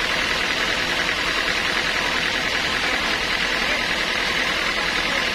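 Sawmill machinery running steadily: a continuous loud mechanical noise with a faint hum beneath it, with no change or break.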